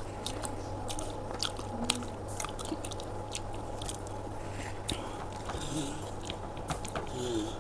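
A person chewing a mouthful of aloo paratha close to the microphone, with many short wet mouth clicks and smacks, over a steady low background hum.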